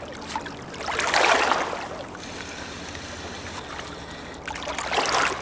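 River water moving and lapping, with two louder splashing rushes: one about a second in, and a shorter one near the end.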